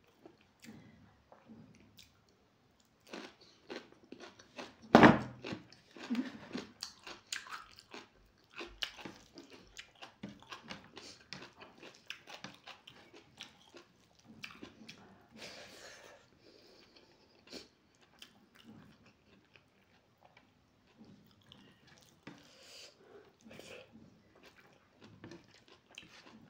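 Close-up eating sounds: a loud crunchy bite into a slice of raw radish about five seconds in, followed by steady chewing with many small wet clicks.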